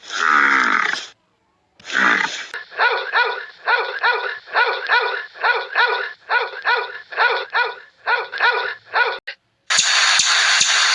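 Animal calls: two harsh, noisy cries, then a quick run of short pitched calls, two or three a second. A steady rushing noise with faint clicks starts near the end.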